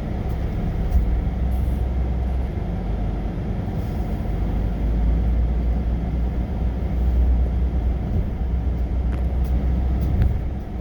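Tractor-trailer truck driving, heard inside the cab: a steady low engine and road rumble.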